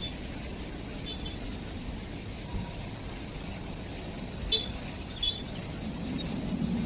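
Steady low rumble of a train running, with a few brief high squeaks, and the rumble growing louder near the end.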